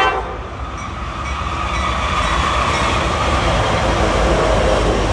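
Freight train running past on the main line, its noise building steadily louder over the few seconds. A short, loud horn blast sounds right at the start.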